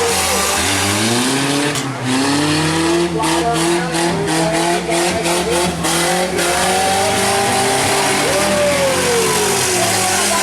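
Several compact pickup and van engines revving in a demolition derby, with overlapping engine notes rising and falling as the drivers accelerate and back off.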